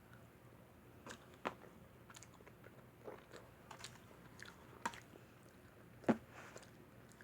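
A person chewing pepperoni pizza close to the microphone: irregular soft crunches and wet mouth clicks, with the sharpest one near the end.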